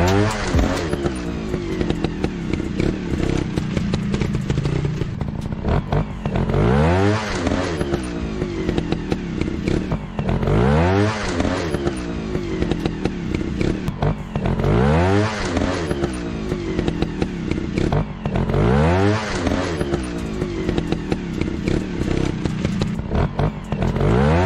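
Motocross dirt bike engine revving up and falling back about every four seconds, over a constant clatter and scraping.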